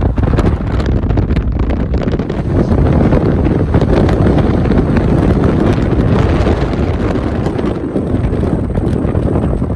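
Rainstorm with strong wind gusting over the microphone: a loud, steady rush that stays dense and low-heavy throughout.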